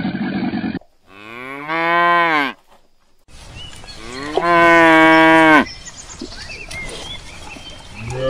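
Cattle mooing: two long moos, the first about a second in, rising then falling in pitch, the second about four and a half seconds in, held steady. A low noisy rumble cuts off just under a second in, and another moo begins at the very end.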